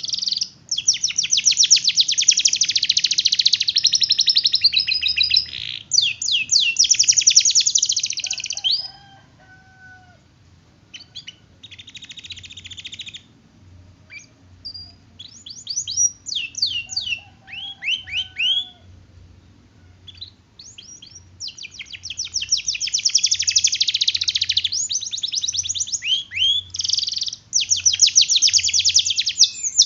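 Domestic canary singing: long, rapid rolling trills of repeated high notes, broken midway by a quieter stretch of separate rising whistled notes and short phrases, then long trills again.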